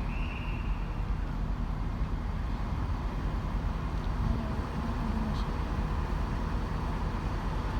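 Diesel train idling at a station platform: a steady low rumble, with a short high tone right at the start.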